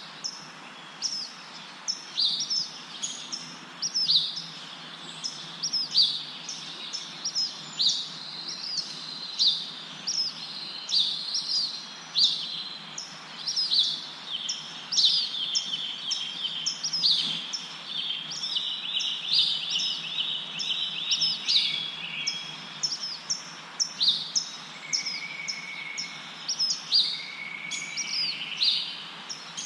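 Birds chirping in many short, quick, overlapping calls over a steady rustle of wind through leaves. A few longer, lower whistled notes come in near the end.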